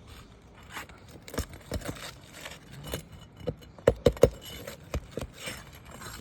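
Scraping, clicks and a few sharp knocks of hand tools prying nails and a creased asphalt shingle loose on a roof, with the loudest knocks bunched about four seconds in.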